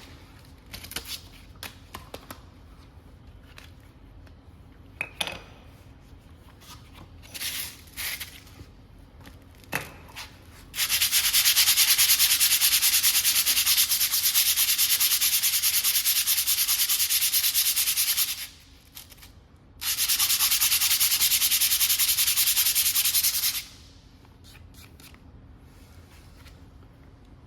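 Abrasive scrubbing on a metal brake part, in two long, steady bouts with a short break between, after a few light clicks and taps.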